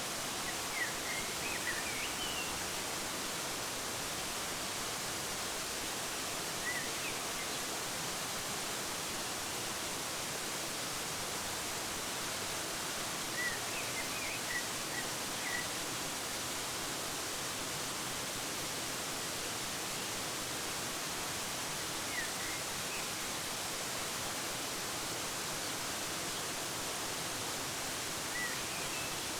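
Steady rush of a waterfall, with short bird chirps breaking in a few times in small clusters.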